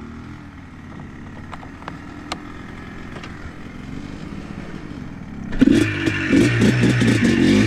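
ATV engine running at a low, steady idle with a few light clicks, then about five and a half seconds in it suddenly revs up loudly with a fast, uneven clatter.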